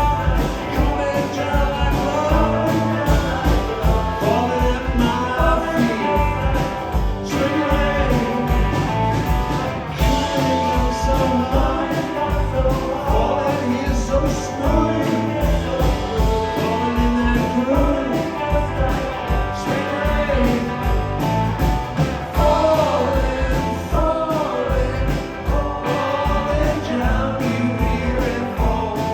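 Live band music: electric guitars and drums keeping a steady beat, with a voice singing the melody over them.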